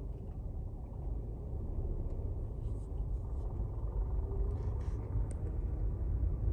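Low rumble of a car's engine and exhaust, growing slightly louder.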